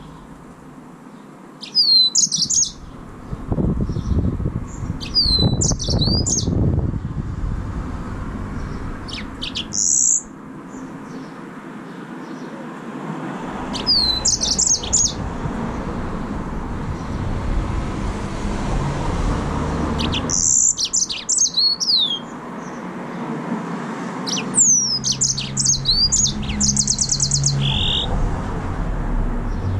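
Yellow-fronted canary (green singing finch) singing: short bursts of quick, high notes sweeping down in pitch, repeated every few seconds, over a low background rumble.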